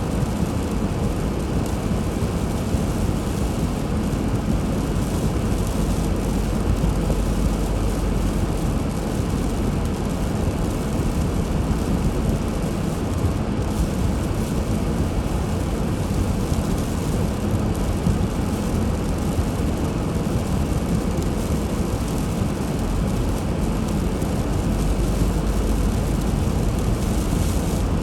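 Steady low rumble of a car driving, engine and tyre noise running on without a break.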